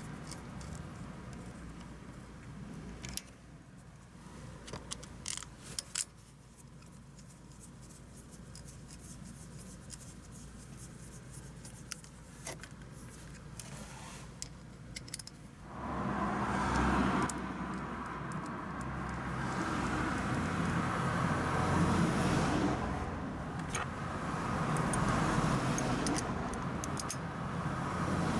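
Keys jingling and small clicks, then about halfway through a Suzuki Every van's K6A three-cylinder engine starts and keeps running, its level rising and falling, after fresh iridium spark plugs have been fitted.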